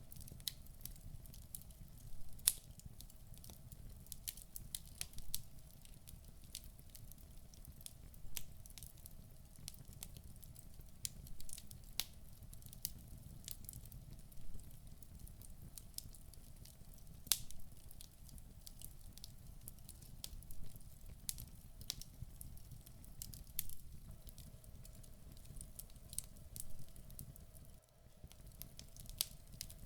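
Wood fire burning in a fireplace: irregular sharp crackles and pops from the logs over a low, steady rumble.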